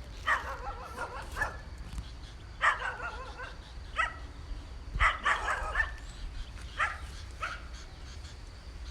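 A dog barking and yipping in about six short bursts over a steady low rumble of wind on the microphone.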